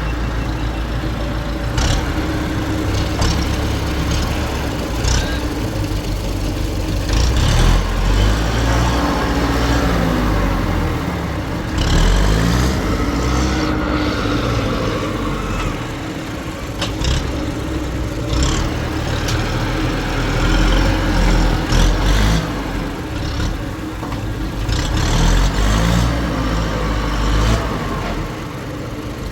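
A heavy engine running steadily at a construction site, with frequent sharp clanks and knocks on top.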